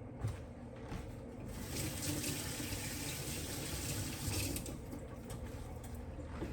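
Kitchen tap running into the sink, turned on about a second and a half in and shut off shortly before the end, after a couple of light knocks.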